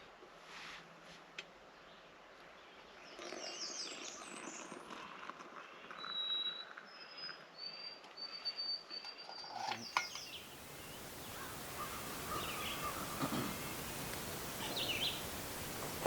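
Wild birds singing: a run of thin, high whistled notes and chirps. About ten seconds in, the background abruptly turns to a louder steady hiss, with more scattered bird chirps over it.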